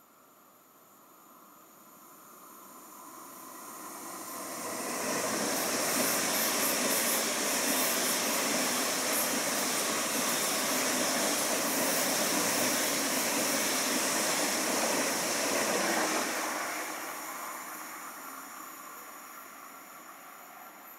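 A train passing by on the line: the rail noise builds over about five seconds, stays loud and hissing for about ten, then slowly fades away.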